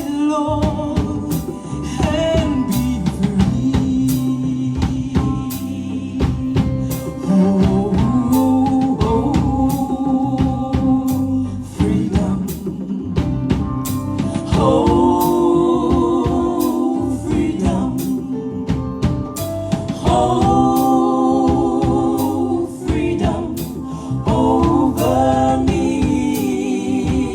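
Gospel music: voices singing long held notes over a drum kit keeping a steady beat.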